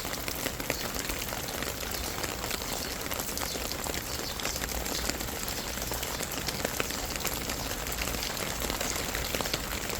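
Steady rainfall: an even hiss with many individual drops ticking sharply against it.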